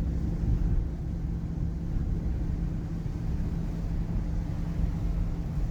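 Inside a moving taxi: steady engine hum and road rumble from the car driving along.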